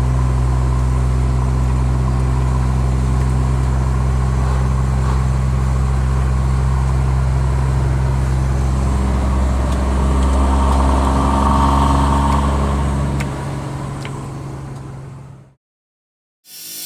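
Scania R420 truck's straight-six diesel with a custom loud open-pipe exhaust, idling steadily. It swells briefly about ten seconds in, then fades out to a short silence near the end.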